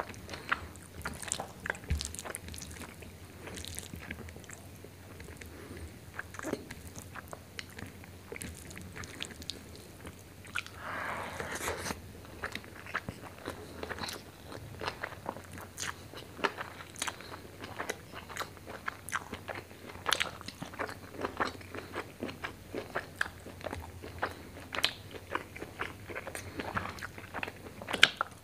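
Close-miked chewing and wet mouth sounds of a man eating rice with chicken liver and gizzard curry by hand: many short smacks and clicks. About eleven seconds in, a denser rush of noise lasts about a second.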